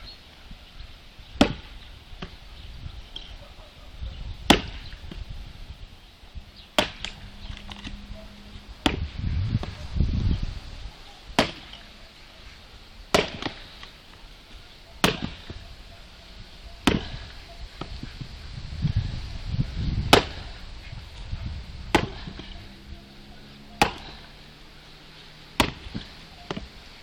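Axe chopping firewood: sharp blows about every two seconds, a dozen in all, with a low rumble twice in between.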